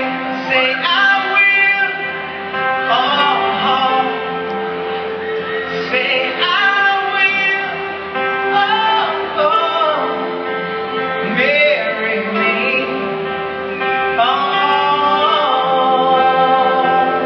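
Live band music in a large hall: a singer over guitar accompaniment, with other voices singing along.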